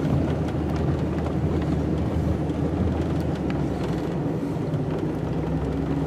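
Snow-plow truck's engine running steadily at a low, even pitch.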